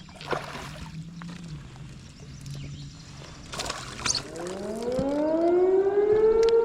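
A siren winding up, starting about four seconds in as a rising wail that levels off into a loud, steady high tone.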